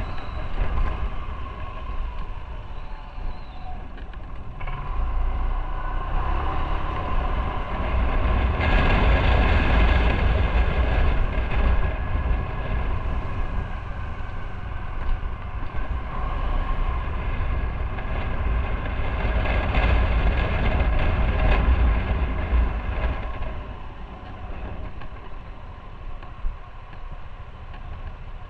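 Motorcycle on the move: engine running with heavy wind rumble on the microphone, getting louder twice for a few seconds and easing off near the end.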